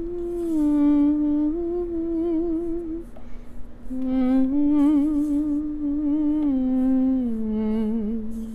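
A voice humming a slow, wordless tune in held notes with a slight waver, stopping briefly about three seconds in before going on.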